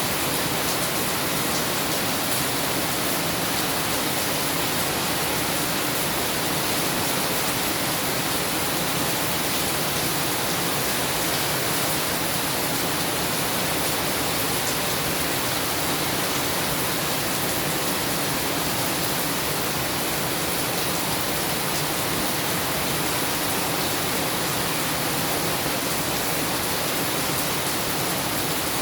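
Heavy rain falling, a steady unbroken hiss with faint fine pattering of drops.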